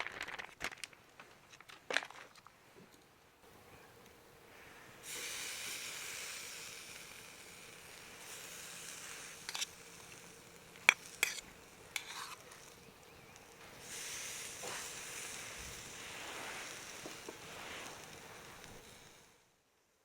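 Meat sizzling on a charcoal shichirin grill: a steady hiss that starts about five seconds in, with a few sharp pops, after some light clicks at the start. It cuts off suddenly just before the end.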